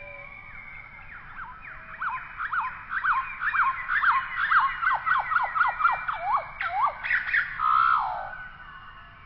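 A bird calling: a rapid run of short falling whistled notes, about three a second, ending in one longer falling note near the end.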